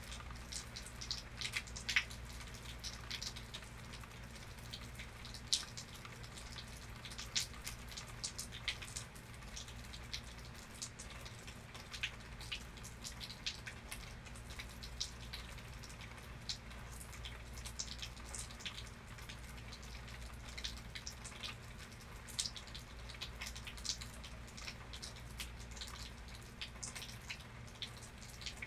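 Rain falling during a thunderstorm, heard as scattered, irregular drops and drips tapping on a surface, a few louder than the rest, over a faint hiss of rain and a steady low hum.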